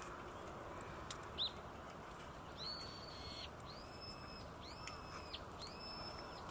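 A bird calling: a short rising chirp about a second and a half in, then four drawn-out high calls in a row, each rising at the start, held level and falling off at the end. A faint steady hiss runs underneath.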